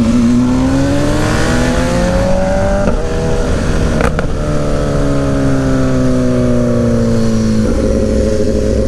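Motorcycle engine with wind rush while riding: the engine note climbs for about three seconds, breaks at a gear change, then sinks slowly with the throttle eased, and jumps up again near the end.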